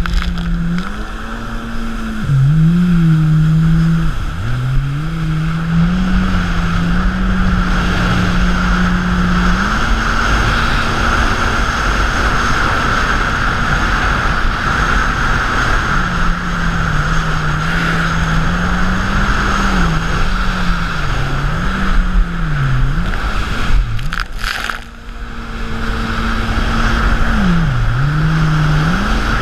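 Modified 220 hp jet ski engine running hard, its pitch rising and falling with the throttle over a steady rush of water and wind. It holds a high steady pitch for several seconds mid-way and drops away briefly near the end before revving up again.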